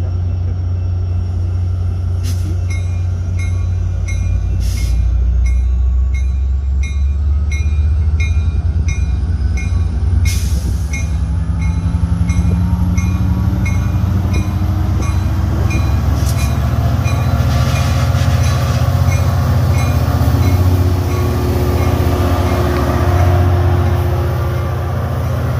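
Metra EMD F59PH diesel locomotive running loudly, its 12-cylinder engine rising in pitch partway through as the train gets under way. A bell rings steadily about twice a second for most of the time.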